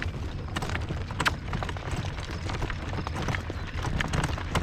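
A harness pony's hooves clopping at a trot, sharp irregular hoof strikes over a steady low rumble of wind on the microphone.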